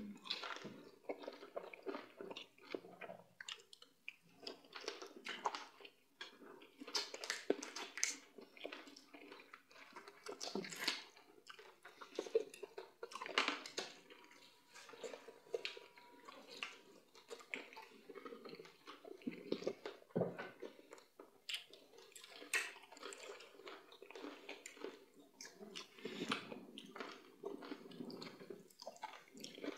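Close-up eating sounds of people eating fufu and meat in peanut-palmnut soup by hand: irregular chewing and mouth clicks, with soft wet squishing as fingers work the food in the bowls.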